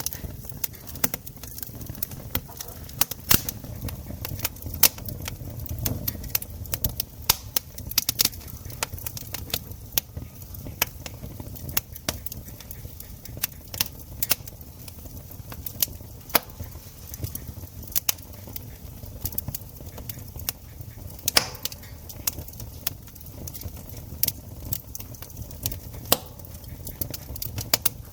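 Wood campfire crackling: frequent, irregular sharp pops and snaps over a low, steady rumble.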